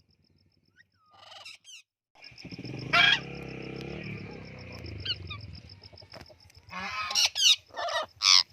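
A bird calling loudly, a run of repeated harsh calls clustered near the end, after a stretch of mixed noise in the middle.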